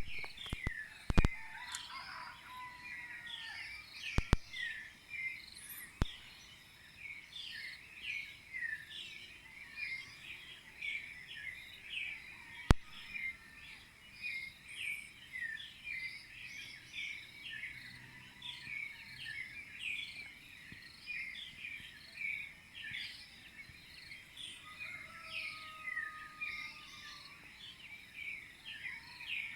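Clay-colored thrushes (yigüirros) singing in a dense, continuous chorus of short chirping phrases. A few sharp clicks stand out above the birds: about a second in, around four and six seconds, and once near thirteen seconds.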